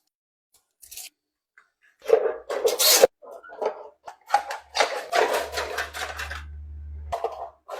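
Rasping, scraping sounds of metal stock being handled and worked, in two stretches, with a low steady hum under the second that cuts off about seven seconds in.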